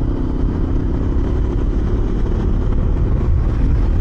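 Hero XPulse 210's single-cylinder engine running steadily at low revs, lugging in sixth gear at about 30 km/h, with a steady rumble of wind on the microphone. It pulls cleanly with no knocking.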